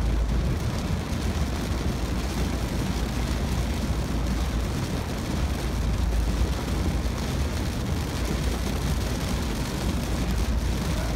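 Car cabin of a Ford Focus driving in heavy rain: a steady deep road and engine rumble under an even hiss of rain and tyre spray.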